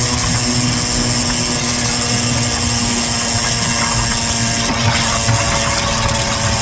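Small gas engine of a gas scooter running steadily under way, a constant buzzing drone with no change in speed.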